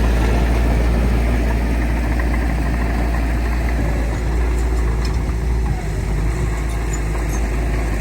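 Heavy diesel engine of earthmoving machinery running steadily with a deep low rumble.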